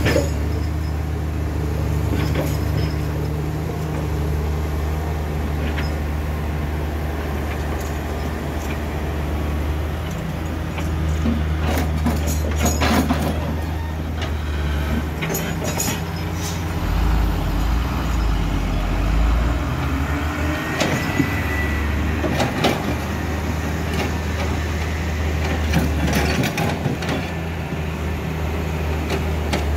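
Heavy diesel truck engines running at low revs, the drone shifting in pitch now and then, with scattered sharp knocks and clanks.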